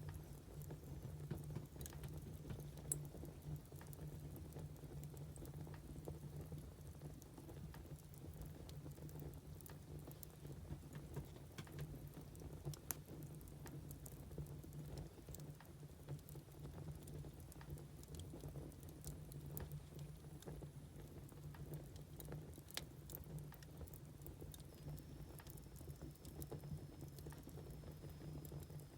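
Firewood burning, with scattered irregular crackles and pops over a low steady hum. A faint thin whistle comes in near the end.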